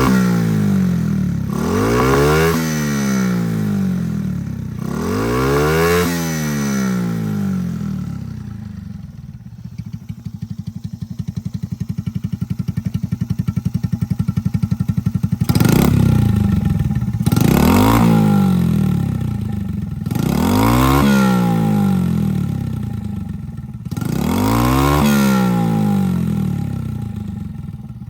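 Bored-up Honda Jorcub scooter engine with an aftermarket muffler, revved in a series of blips that rise and fall, with a stretch of steady idling in the middle.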